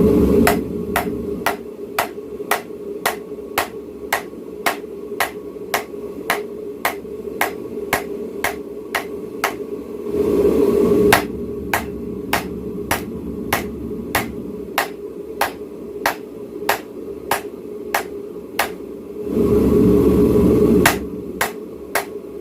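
Hammer blows on hot steel over an anvil, sharp ringing strikes about two a second in two long runs. Between the runs a forge's low roar grows loud, at the start, around ten seconds in and again near the end.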